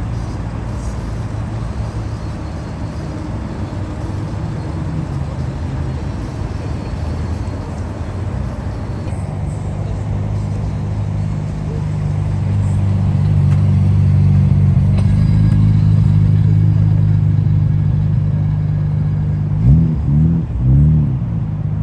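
Car engine running with a low, steady note that grows louder around the middle, then a few quick throttle blips near the end.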